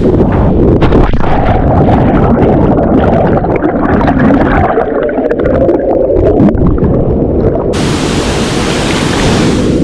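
A jump into a waterfall plunge pool heard with the microphone underwater: a loud, muffled rush and bubbling of churning water with scattered small clicks. About eight seconds in, the sound opens out abruptly into the bright, hissing rush of the waterfall as the microphone comes back out of the water.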